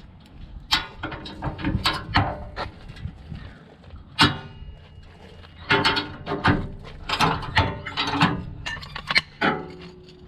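Irregular metal clanks and knocks, a few of them ringing briefly, from hands and tools working on bent parts of an old tractor.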